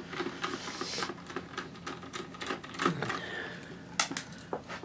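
Small screwdriver working the hard drive screws in a laptop: irregular light metallic clicks and scraping, with two sharper clicks about three and four seconds in.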